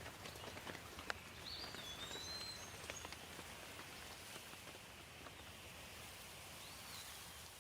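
Light, steady rain with scattered individual drops tapping close by. A bird gives short whistled calls about a second and a half in and again near the end.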